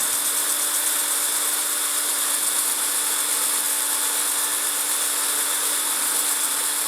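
Electric drill running steadily, spinning a wooden flywheel while sandpaper is held lightly against its rim to sand it true and remove eccentricity. A steady motor hum under an even sanding hiss.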